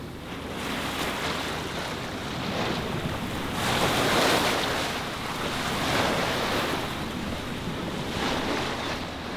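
Open-sea waves washing in a steady rush, swelling louder about four seconds in and again around six seconds, with wind buffeting the microphone.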